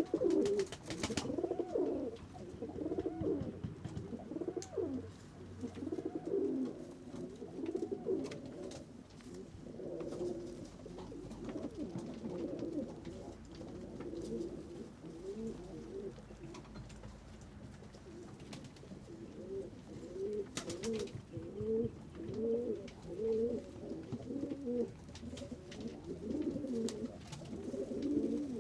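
A flock of pigeons cooing, many low coos overlapping and rising and falling without a break. A couple of brief sharp noises cut through, about a second in and again about two-thirds of the way through.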